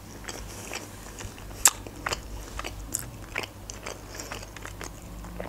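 A person chewing a mouthful of food close to the microphone, with scattered crisp crunching clicks. The sharpest crunch comes about a second and a half in, another near three seconds.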